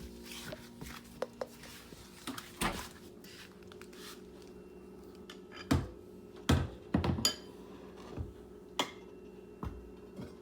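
Dishes and utensils clattering: scattered sharp knocks and clinks, the loudest bunched about six to seven seconds in, over a steady low hum.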